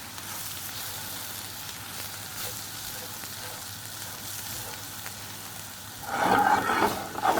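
Onions and plain flour sizzling in melted butter in a non-stick pan while being stirred, with faint clicks of the spoon against the pan. About six seconds in a louder burst of noise rises over the sizzle for about a second.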